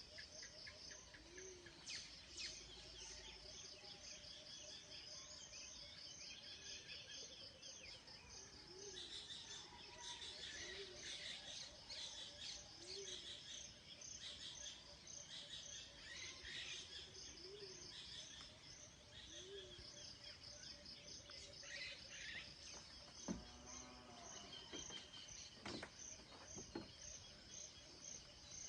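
Outdoor ambience of birds calling over steady, evenly pulsed insect chirping, about two chirps a second. Short low calls repeat every second or two, and one lower call stands out late on.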